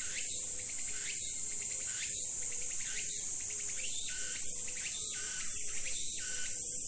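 Insect chorus: a steady high-pitched trill, with a short rising chirp repeating about once a second over it.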